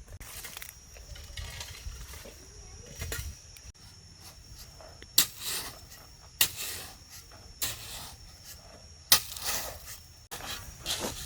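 A run of short, hissing scrapes repeating about every second and a quarter, over a faint steady high whine.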